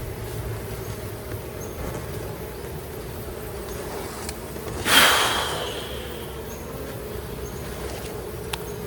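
Honeybee colony humming steadily around an open hive. About five seconds in, a single sharp knock with a short ringing tail.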